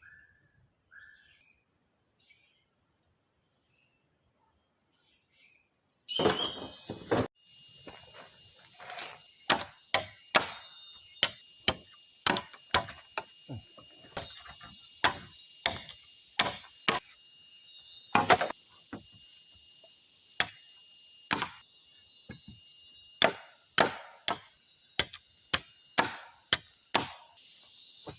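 Steady high drone of forest insects. From about six seconds in, a long run of sharp chopping blows on wood, roughly one to two a second, over the insect drone.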